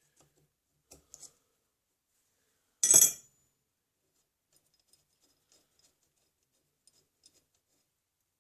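Small metal parts and tools handled on a workbench: a few light clicks, then one loud, sharp metallic clatter about three seconds in, followed by faint scattered ticks.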